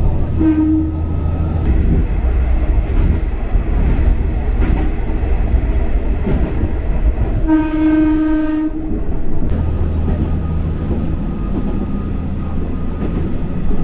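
KiHa 125 diesel railcar running along the track with a steady rumble of engine and wheels. It sounds its horn twice: a short toot about half a second in and a longer blast about halfway through.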